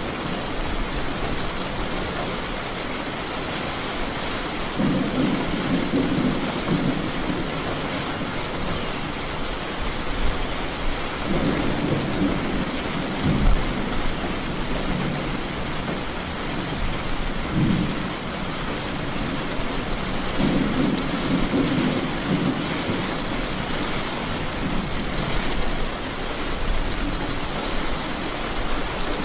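Steady rain with thunder rolling in and out, several low rumbles spaced a few seconds apart.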